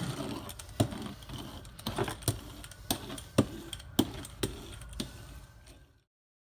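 A run of irregular light clicks and knocks, roughly one every half second to second, over a low hum, cutting off suddenly about six seconds in.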